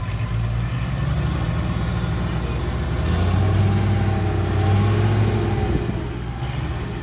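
Heavy diesel engine of earthmoving equipment running, rising under load about three seconds in and easing back near the end.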